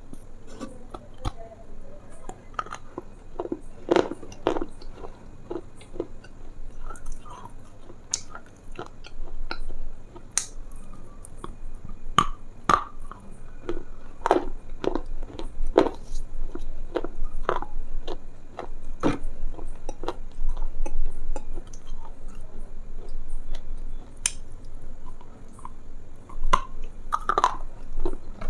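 Close-miked chewing and biting: irregular crunches and sharp mouth clicks at an uneven pace.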